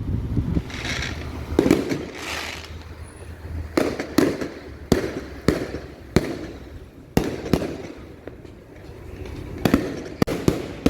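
Fireworks going off: a run of sharp bangs at uneven intervals, some in quick pairs and a close cluster near the end, with a hiss in the first couple of seconds.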